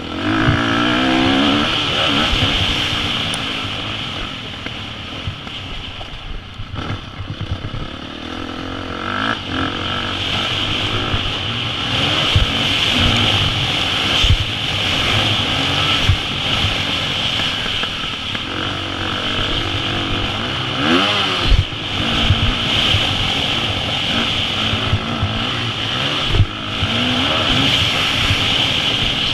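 KTM 350 SX-F four-stroke single-cylinder dirt bike engine being ridden hard, revving up and falling back again and again through the gears. Scattered low thumps sound under the engine.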